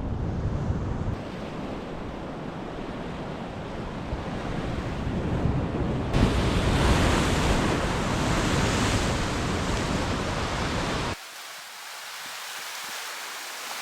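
Ocean surf with wind buffeting the microphone. The sound changes abruptly about a second in and again about six seconds in, where it grows louder. About eleven seconds in, the low wind rumble drops away and leaves a quieter wash of surf.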